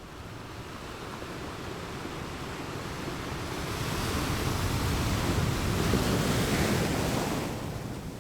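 Ocean surf: one wave's rushing wash that builds gradually for several seconds, peaks, then falls away near the end.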